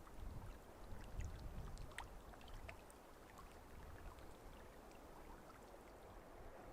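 Faint water lapping and trickling, with scattered light ticks over a low rumble.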